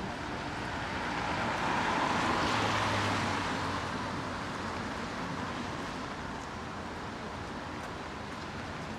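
A vehicle passing on a wet road: a hiss of tyres on water that swells to a peak about two to three seconds in, then fades back into steady street noise.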